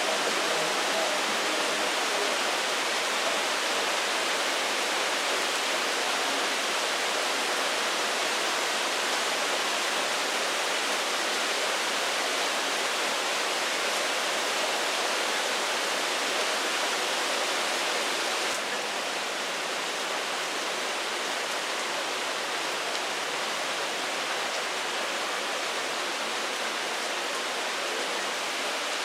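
Heavy summer rain pouring down in a steady hiss, dropping slightly in level about two-thirds of the way through.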